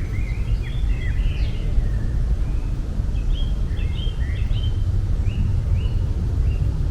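Small birds chirping in short high notes, with a run of evenly repeated calls about halfway through, over a steady low rumble.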